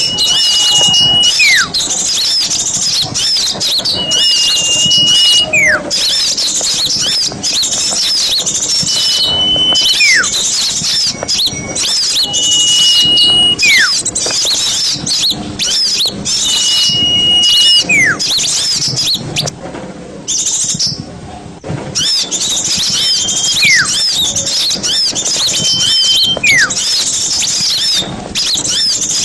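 A noisy chorus of many small birds chirping and trilling, with a high whistled call every few seconds: a held note that slides sharply down at its end. The chorus breaks off briefly about two-thirds of the way through.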